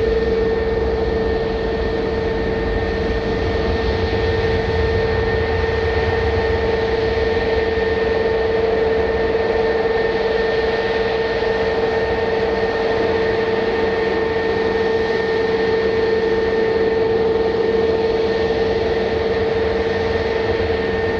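Jet airliner engines running at a steady speed, a constant whine over an even rush of noise.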